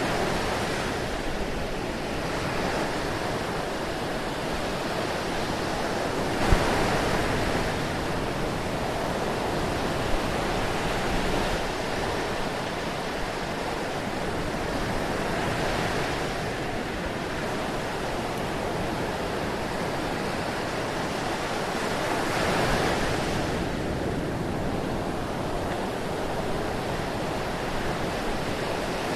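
Ocean surf: a continuous wash of waves, swelling as a wave breaks every five or six seconds, with one short sharp click about six seconds in.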